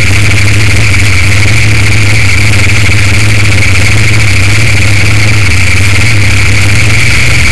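Top Sportsman Mustang drag car's V8 engine running steadily at low speed, with no revving, so loud that it distorts the recording.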